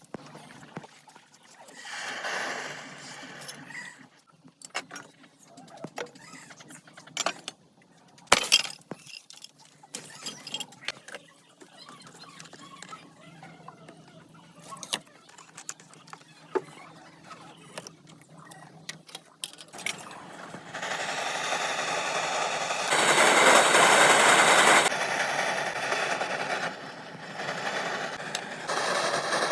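Old fluorescent tube glass clinking and cracking, heard as scattered sharp knocks that are loudest about eight seconds in. From about twenty seconds a steady, noisy whir of a small machine takes over, louder for a couple of seconds soon after it starts.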